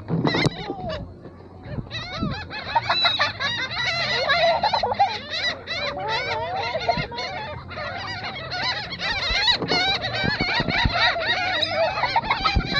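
A flock of gulls calling over one another in a dense, continuous clamour, thickening about two seconds in.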